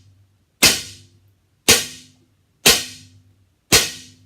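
Topoint R3 recurve bow being dry-fired four times, about once a second: each release with no arrow on the string gives a sharp loud snap of the string and limbs, followed by a short low hum as the bow vibrates out.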